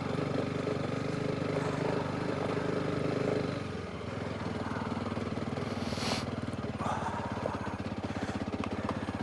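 Honda CRF300 Rally's single-cylinder engine pulling steadily, then the revs drop about three and a half seconds in and it chugs along at low revs. A single sharp knock comes about six seconds in.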